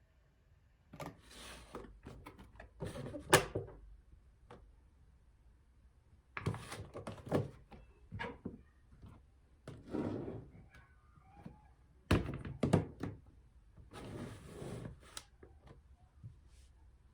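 Household handling sounds: irregular thunks and knocks, the sharpest about three seconds in and again about twelve seconds in, mixed with short bursts of rustling.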